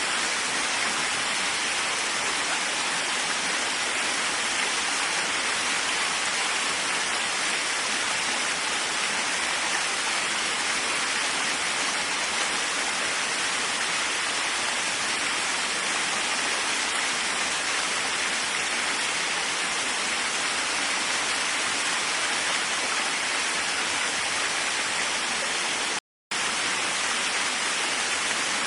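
Waterfall rushing in a steady, even roar of falling water, which cuts out for a split second near the end before resuming unchanged.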